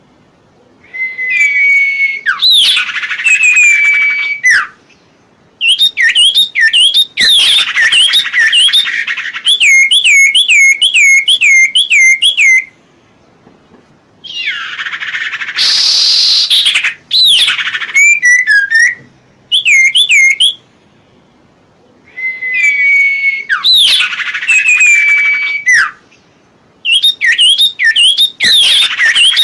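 Songbird known as serpu or cipoh singing in bursts: quick runs of repeated looping whistled notes alternating with harsher, raspy calls, each burst broken off by a short silence.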